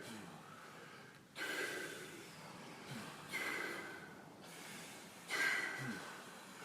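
Deep, forceful breathing of the Wim Hof Method: breaths drawn in and let out in a steady rhythm, one rush of air about every two seconds.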